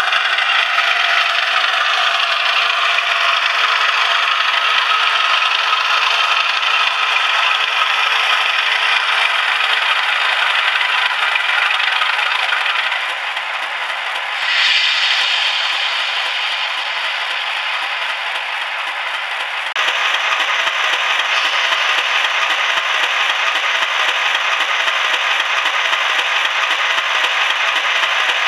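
Sound-equipped OO gauge model diesel locomotive running, its recorded engine sound played through a small onboard speaker with no deep bass and a steady rattle. It dips about halfway through and comes back up suddenly near the end of the middle.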